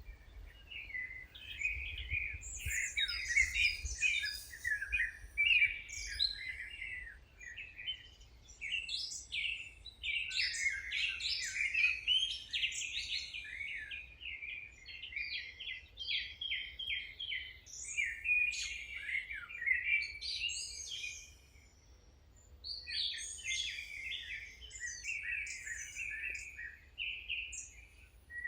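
Songbirds singing in quick, overlapping chirping phrases, with a short lull about three-quarters of the way through.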